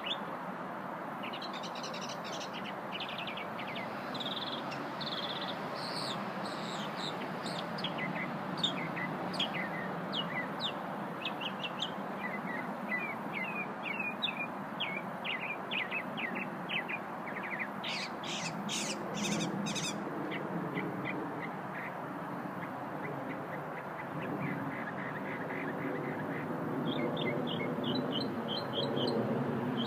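A small songbird singing a long, varied song of short chirps, whistled notes and rapid trills, with a fast buzzy run of notes about two-thirds of the way through. A steady hiss and hum sit underneath.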